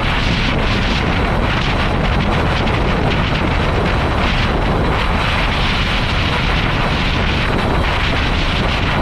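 Wind buffeting the microphone of a cyclist riding a road bike at speed in a strong crosswind: a loud, steady rushing noise with a heavy low rumble.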